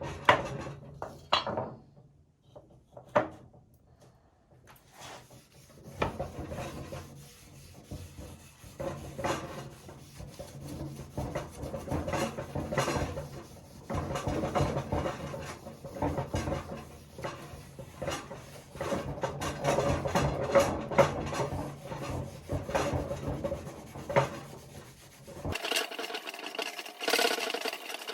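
Wood being rubbed or scraped by hand in quick repeated strokes, after a few separate knocks at the start. Near the end the sound changes abruptly to a thinner, higher scraping.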